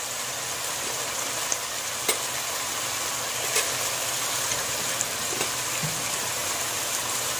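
Chopped vegetables frying in oil in a pan, a steady sizzle with a few faint clicks.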